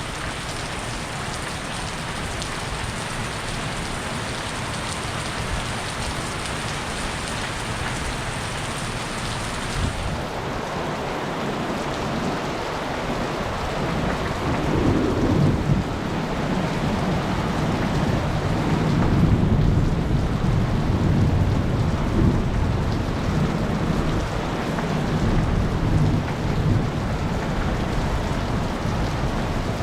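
Heavy rain falling steadily, with a long rolling rumble of thunder that builds from about halfway through and goes on for many seconds.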